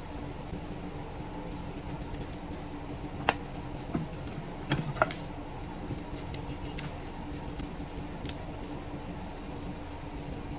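A steady mechanical hum with a constant low tone, with a few sharp clicks and taps around the middle.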